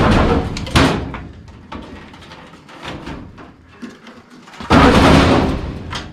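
Sheet-metal clunks, bangs and scraping as a furnace heat exchanger assembly is handled. There is a sharp knock about a second in, and a louder, longer metallic clatter near the end.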